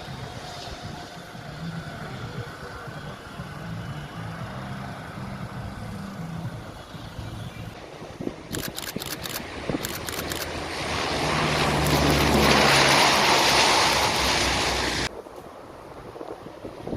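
Aircraft flying past: its engine noise swells into a loud rush, then cuts off suddenly a couple of seconds before the end.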